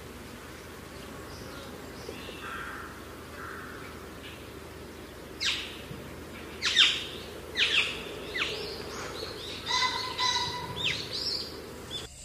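A bird calling: faint chirps at first, then from about halfway through a run of sharp, steeply falling whistled notes, roughly one a second, over a steady low outdoor hum.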